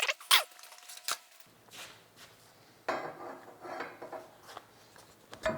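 Steel-on-steel clinks and clicks, with a short rubbing, scraping stretch in the middle, as a heat-expanded steel timing gear is handled and slid onto the end of a crankshaft.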